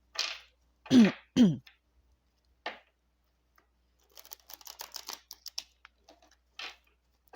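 A deck of Lenormand cards being shuffled and handled: a quick run of soft card flicks and rustles in the second half, after a lone click. Two short murmured vocal sounds come about a second in.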